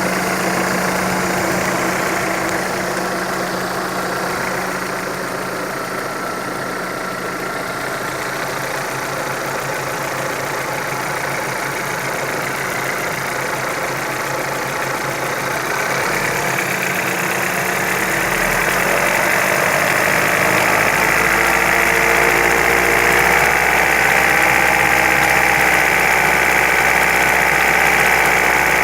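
Engine running with a knock, the noise the owner is trying to trace. About two-thirds of the way through, the sound grows louder and fuller.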